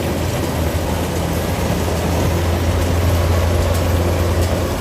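Rice combine harvester's engine running steadily, with a strong low hum that swells a little in the middle.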